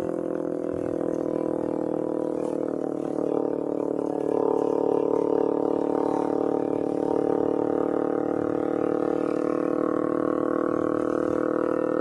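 Kawasaki Ninja 250R's carbureted parallel-twin engine running through an Austin Racing aftermarket exhaust while riding, steady and getting louder about four seconds in.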